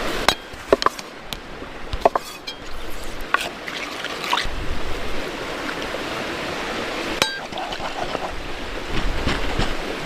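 Water running steadily, with scattered sharp clicks and knocks of handling throughout.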